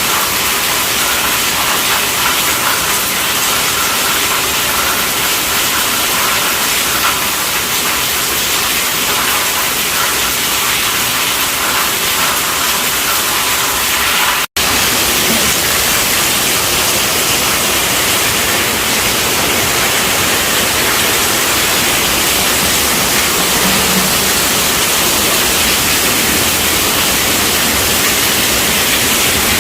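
Steady rainfall: an even, loud hiss of rain, cutting out for an instant about halfway through.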